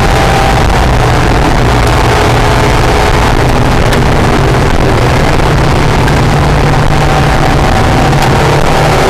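Acura NSX's mid-mounted V6 engine running loud and steady at speed on a racetrack, heard from inside the car.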